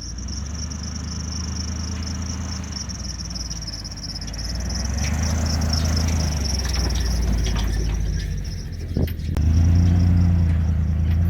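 A vehicle engine running steadily, its low hum shifting pitch a few times, with a steady high whine above it. About nine seconds in there is a click, and the engine runs louder after it.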